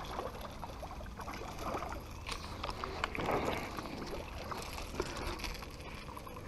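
Low, steady water-and-wind noise around a small fishing boat, with a few faint scattered knocks.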